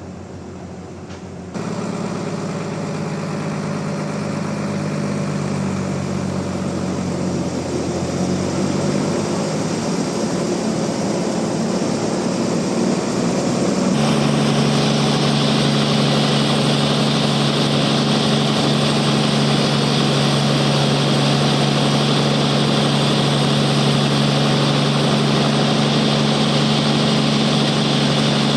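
Sawmill machinery running steadily, a loud low hum with a constant pitch. It jumps louder abruptly about a second and a half in and again about halfway through, then holds level.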